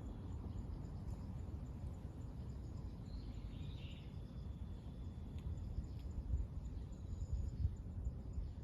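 Outdoor ambience: a steady low rumble, with a faint high thin tone and a brief faint chirp about three seconds in.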